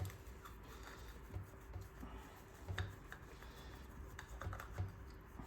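A few faint, scattered clicks and light knocks of hand tools and small engine parts being handled during teardown, with quiet stretches between.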